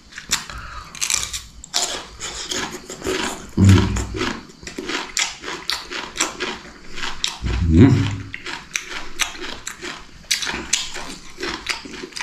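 A man eating close to the microphone: crunchy bites and chewing, most likely of fresh cucumber, with a continual run of crackly clicks. Two short low grunts or hums of enjoyment come about 4 and 8 seconds in.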